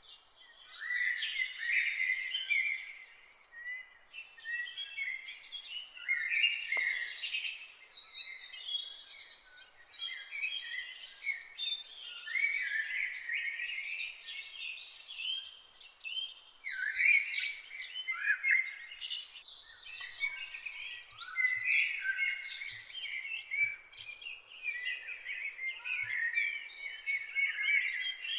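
Several songbirds singing at once: a dense, overlapping chorus of high chirps, trills and warbles that never stops, over a faint steady background hiss.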